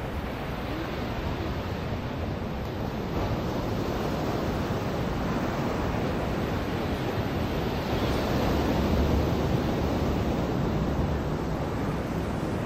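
Ocean surf washing onto a beach, a steady rush of breaking waves that swells louder about eight seconds in as a bigger wave comes in.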